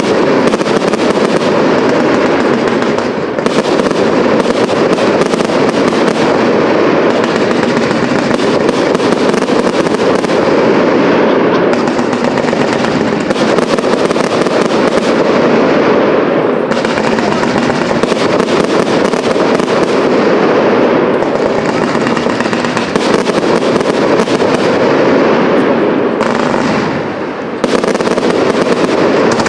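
Large fireworks display: a dense, unbroken barrage of shell bursts and crackle, with short lulls about three seconds in and near the end.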